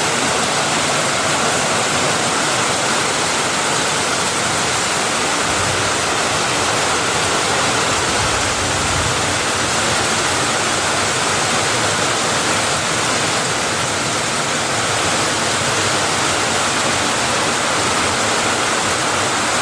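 Fast-flowing floodwater rushing through creek rapids: a steady, loud, even rush of water that does not change.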